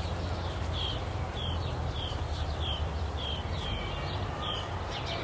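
A bird chirping over and over, short downward-sliding calls about twice a second, over a steady low hum.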